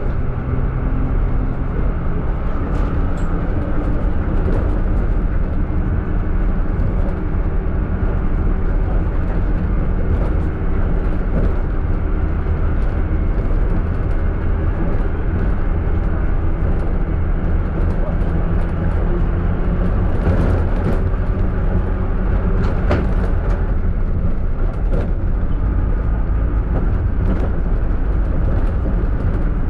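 City minibus running, with a steady low engine and road rumble and a few faint clicks and rattles; no brake whistle stands out.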